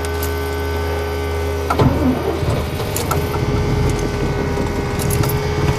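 Chevy Silverado pickup's cold 350 fuel-injected V8 being cranked by the starter in sub-zero cold, catching about two seconds in and then running rough and uneven.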